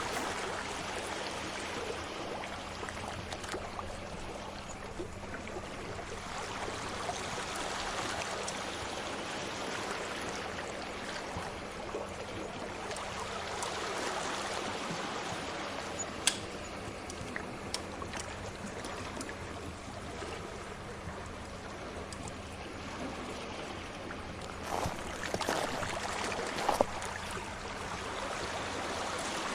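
Sea waves washing in a steady, slowly swelling hiss, with occasional sharp pops from a crackling wood fire; a short cluster of louder pops comes near the end.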